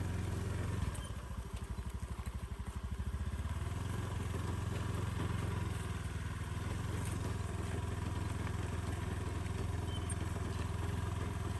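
Motorcycle engine running. About a second in, the engine note drops to a slower, pulsing beat for a couple of seconds, then settles back into a steady hum.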